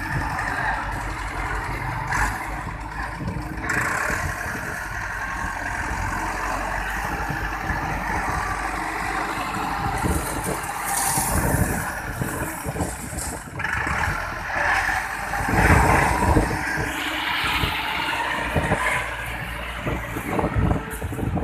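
Tractor engine running, its sound swelling and easing, with a louder surge about three quarters of the way through.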